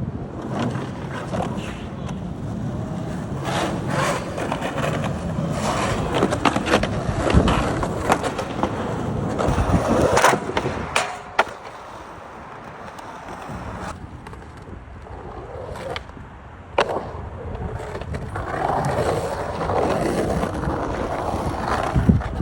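Skateboard wheels rolling, with sharp clacks of the board from tricks and landings, a cluster about ten seconds in and another near seventeen seconds; the rolling drops quieter for several seconds in between.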